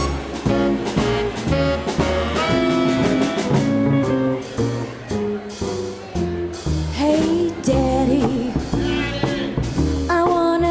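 Live small swing band playing: bass notes on a steady beat under drums, guitar and held horn lines. A singer's voice comes in over the band in the second half.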